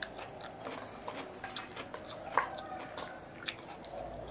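Chewing and mouth smacks of people eating rice and fried fish, with scattered short clicks and one louder smack about halfway through.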